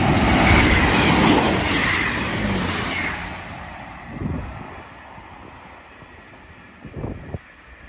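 East Midlands Railway Class 158 diesel multiple unit passing, its wheels clacking over the rail joints, loudest in the first couple of seconds and then fading away.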